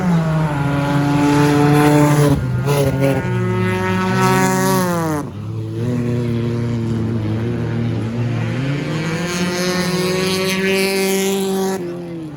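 Several stock car engines racing at once, their pitches rising and falling as the cars go by. One engine drops steeply in pitch as it passes about five seconds in, and the sound eases off near the end.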